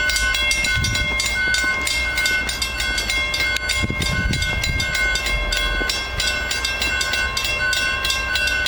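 Railroad grade-crossing warning bell ringing in rapid, even strokes. The crossing has been activated by hand, with clips on the rails, to lower the gates for a hi-rail truck, with no train coming.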